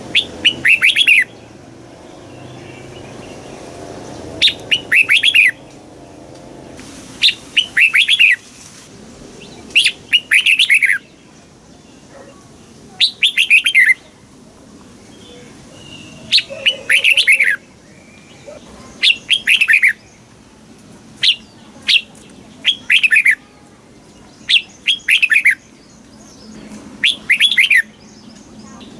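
Red-whiskered bulbul singing: short, bright phrases of quick falling notes, repeated every two to three seconds.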